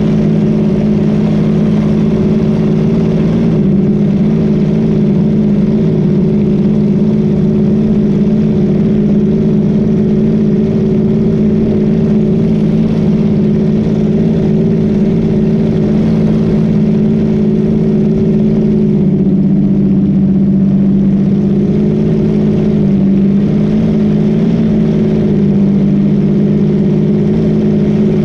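Boat engine running steadily at speed, over a haze of rushing noise, its pitch shifting slightly about two-thirds of the way through.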